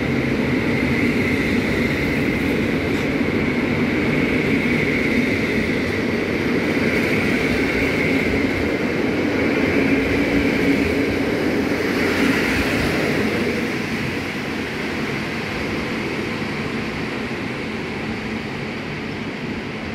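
Departing passenger coaches rolling past on the rails, a steady rolling noise of wheels on track. The noise drops away about two-thirds of the way through as the train clears the platform, leaving a fainter receding rumble.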